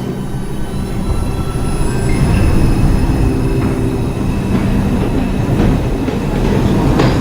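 R142 subway train pulling out of a station, its traction motors whining over the rumble and rattle of the wheels on the rails, growing louder about two seconds in.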